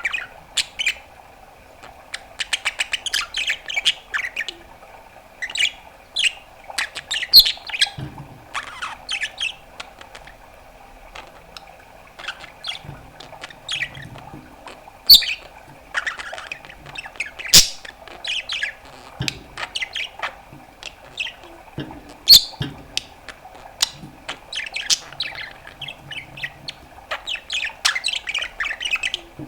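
A pet budgerigar chattering: quick chirps, squawks and sharp high calls in irregular runs, some very loud, with a few low sounds mixed in.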